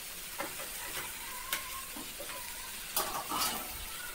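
Chopped okra sizzling as it fries in a little oil in an aluminium pan, a steady hiss, with a few light knocks against the pan.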